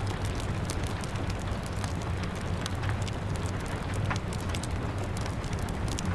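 Rain pattering steadily on a window, mixed with a crackling wood fire. Many small sharp pops and crackles come over an even hiss and a low rumble.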